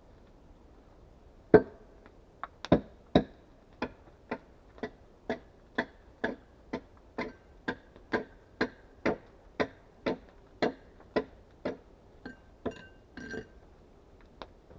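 A hand tool striking wood in a steady run of blows, about two a second, some twenty in all. It starts about a second and a half in, with the first blows the loudest, and stops shortly before the end.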